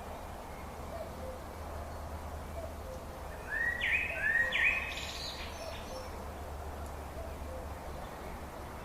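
A songbird gives one short phrase of three quick upward-sweeping whistled notes about halfway through. Fainter low notes repeat about once a second behind it, over a steady outdoor hiss.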